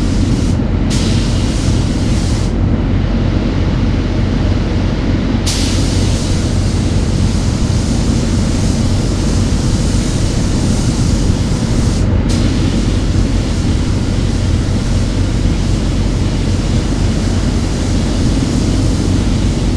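Paint spray gun hissing as its trigger is pulled, laying base coat: a short pull of about a second and a half, then a long pull of about six seconds, a brief break, and another of about seven seconds. Under it runs a steady low hum.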